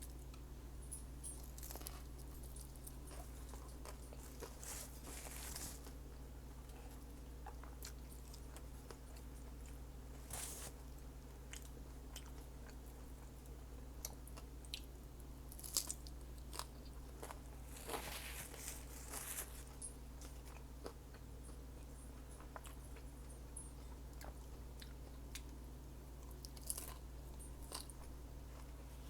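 A person eating tacos close to the microphone: chewing and biting, with scattered small crunches and wet mouth clicks, a few louder bites now and then, over a steady low hum.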